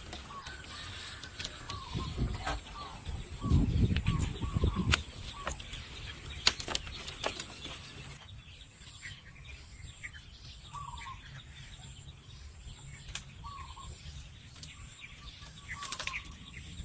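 Birds calling with short, repeated chirps, over scattered sharp clicks and knocks. A few seconds in there is a stretch of heavy low thudding and rumbling.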